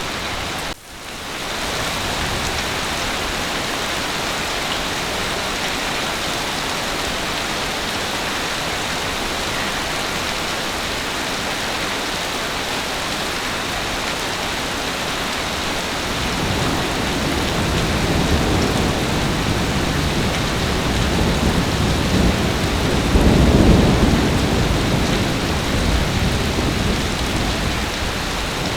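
Heavy rain falling steadily. A low, rolling thunder rumble builds from about halfway through and peaks near the end. The rain briefly drops out about a second in.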